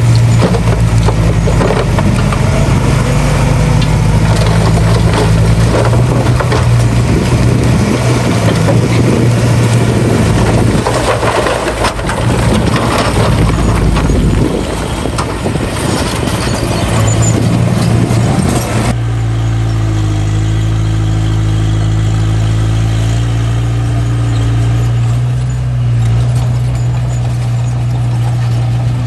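Mini bulldozer's diesel engine running steadily, with a loud clattering, grinding noise of the working machine over it. About two-thirds of the way through the clatter stops abruptly and the engine hum carries on alone.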